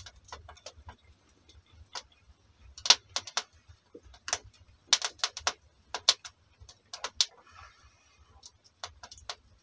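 Wood burning in a small stove, crackling with irregular sharp pops and clicks, some much louder than others.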